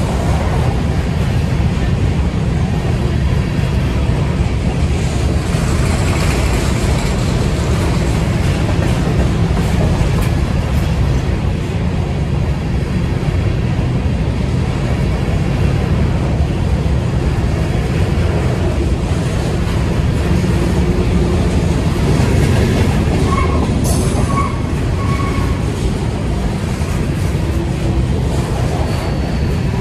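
A train running on the rails, a loud steady rumble of wheels and cars rolling along.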